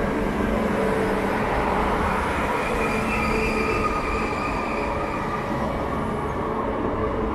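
TCDD HT65000 YHT high-speed electric trainset arriving and rolling past along the platform: a steady rumble of wheels on rail with several high whining tones held over it.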